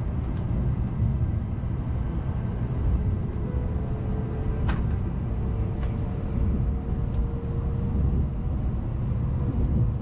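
Shinkansen bullet train cabin noise: a steady low rumble as the train pulls out of the station, with a faint whine through the middle and two sharp clicks about five and six seconds in.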